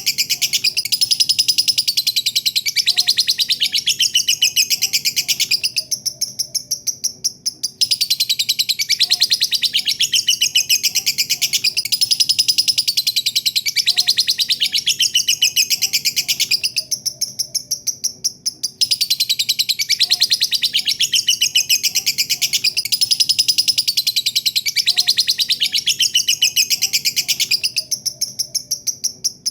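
Lovebird singing its long, rapid, high-pitched chattering song (the "ngekek panjang" prized by keepers). The chatter breaks off for a second or two about every eleven seconds, then starts again.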